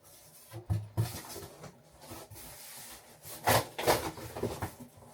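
Packaging of a new fridge freezer being worked at by hand: irregular scraping and rubbing with scattered knocks, the loudest strokes about three and a half seconds in.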